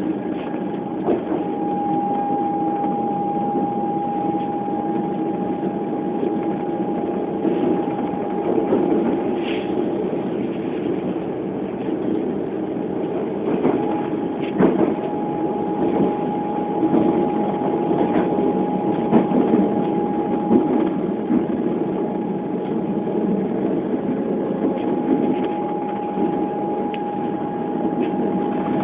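Electric suburban train running, heard from inside the carriage: a steady rumble with a thin, steady high whine that fades and returns. Occasional short knocks from the wheels and running gear.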